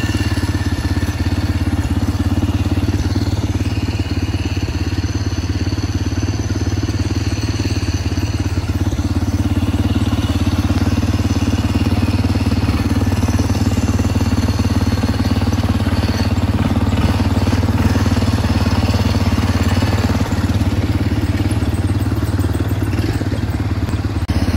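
Dirt bike engine running at a steady speed: a low, even drone with no revving.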